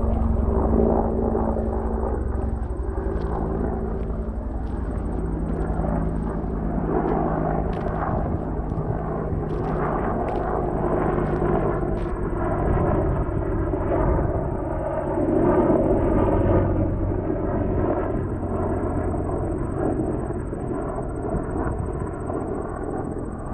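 Low-flying military helicopters, Chinooks, passing overhead in a group: a steady deep rotor and engine rumble that swells a little about two-thirds of the way through.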